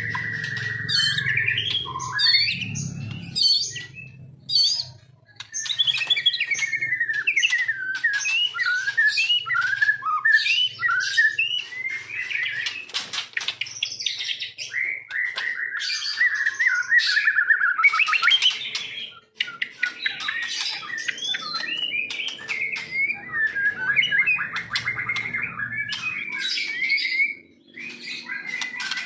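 Songbird singing a long, varied run of whistles, trills and chirps, broken by two brief pauses.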